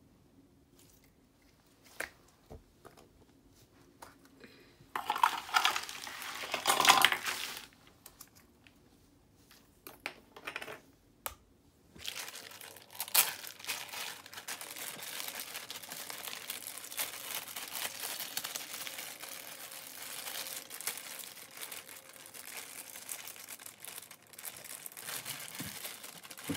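Plastic zip-lock bag crinkling and rustling as slime is worked out of it: a loud stretch of rustling about five seconds in, then continuous fast crinkling from about halfway through, the footage sped up.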